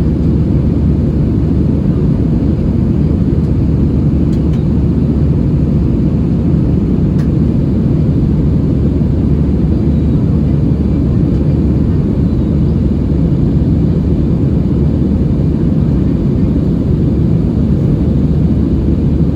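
Steady low roar inside the cabin of an Airbus A320-216 in flight, from its CFM56-5B engines and the airflow over the fuselage, with a couple of faint ticks.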